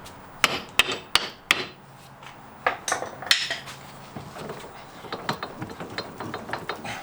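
Metal hand tools striking and clanking on car parts: four sharp knocks in about a second, a short pause, three more, then lighter clicks and rattles.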